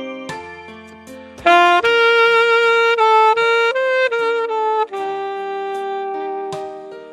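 A saxophone plays a slow melody of held notes that step from pitch to pitch, over a recorded backing track. It is quieter for the first second and a half, then louder.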